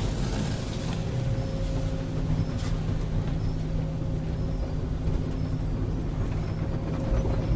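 Automatic car wash machinery working over a car: a steady hum with a constant low drone and a faint higher tone over a rushing noise, with a few faint clicks.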